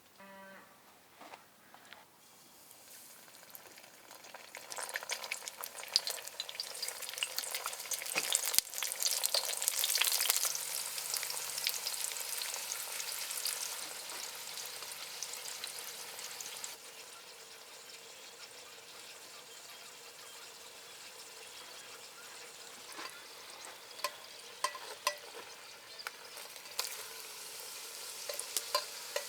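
Chebureki frying in hot oil, a dense sizzle with many small pops and crackles. The sizzle swells over the first few seconds, is loudest around ten seconds in, then settles to a steadier, quieter hiss with scattered sharper pops near the end.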